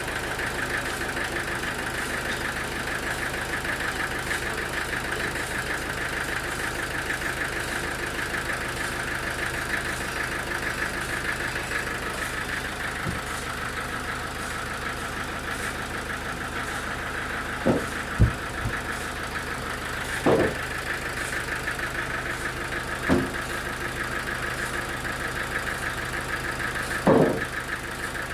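Sawmill machinery engine running steadily with a fast, even rhythm. Five short, loud knocks come in the second half.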